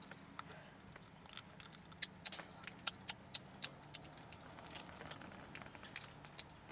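Irregular sharp clicks and light taps, a cluster of the loudest a little over two seconds in, over a faint steady low hum.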